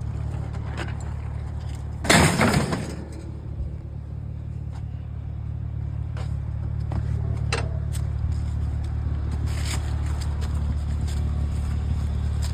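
A vehicle engine idling with a steady low hum, and a loud crash of scrap metal being handled about two seconds in, followed by scattered lighter knocks and clanks.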